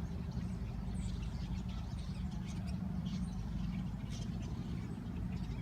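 Steady low rumble of distant road traffic, with several brief high chirps from a flock of birds scattered through it.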